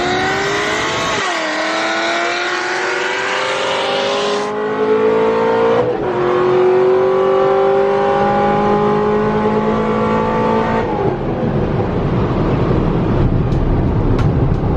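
Car engine at full throttle, accelerating hard from a standing launch: the pitch climbs, drops with upshifts about a second in and again near six seconds, then climbs again. Near eleven seconds the throttle is released, and only a steady rush of wind and road noise is left.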